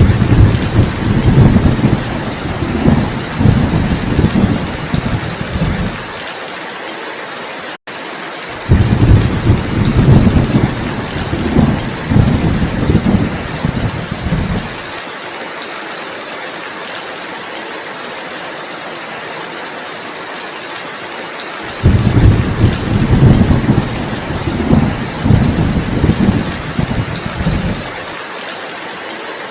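Steady heavy rain with three long rolls of thunder rumbling low over it, each lasting about six seconds. The sound cuts out for an instant just before the second roll.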